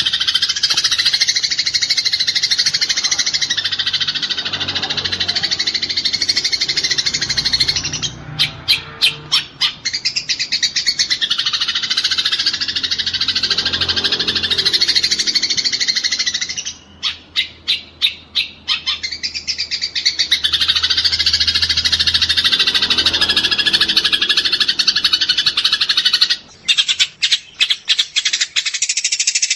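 Eurasian tree sparrows fighting, giving a dense, continuous, harsh chatter. Three times it breaks into a run of quick, sharp separate chirps, about four a second.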